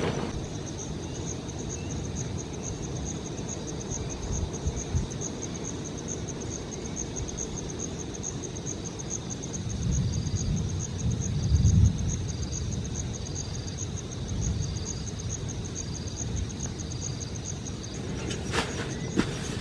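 Insects trilling: one high, rapidly pulsing trill runs steadily, and about halfway through a second insect joins with a short chirp about once a second. Under them is a steady low rush that swells briefly near the middle.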